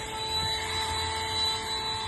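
Temola cordless handheld vacuum cleaner running steadily, a constant high-pitched motor whine over a rush of air.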